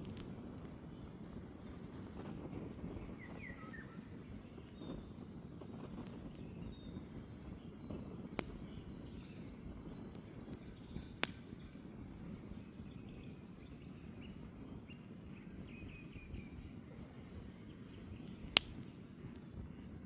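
Campfire burning with a low steady rush and a few sharp pops, the loudest near the end. Faint birdsong chirps in the background.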